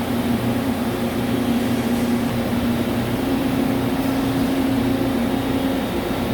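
CNC vertical lathe running in a machine shop: a steady hum with a constant low drone over an even hiss.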